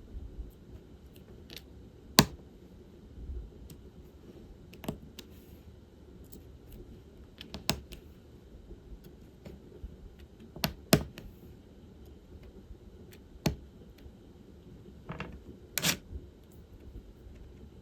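Diamond painting: irregular small plastic clicks and taps as resin drills are picked up with a drill pen and pressed onto the canvas, with a short, denser rattle of drills near the end.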